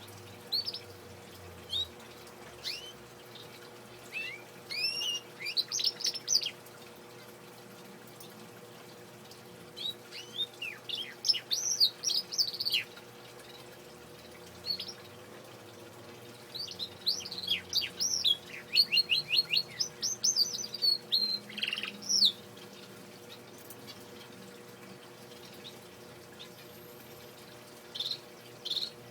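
Male domestic canary singing: bursts of quick, high rising and falling chirps and trills, with single notes and pauses between phrases. The longest bursts come about a third of the way in and again past the middle.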